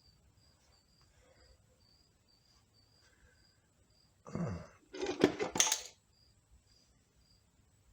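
Metal transmission parts clattering, with a quick run of sharp clicks for about a second, roughly five seconds in, as a small roller bearing comes loose from a Ford C6 transmission's clutch assembly. A short vocal grunt comes just before.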